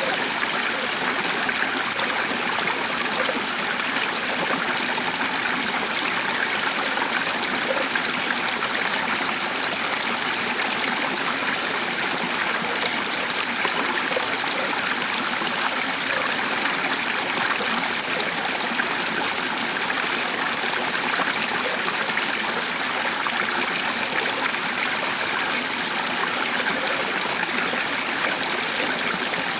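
Steady rushing of a stream, running water without let-up.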